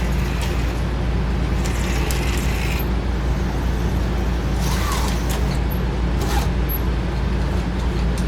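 Small electric motors of HO-scale slot cars and a model train running on a layout, a continuous whirring over a steady low electrical hum. About five and six seconds in there are brief rises and falls in pitch as the cars speed up and slow down.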